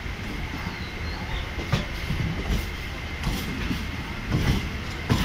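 Suburban electric train running along the track, heard from aboard: a steady low rumble with a few sharp knocks from the wheels on the rails.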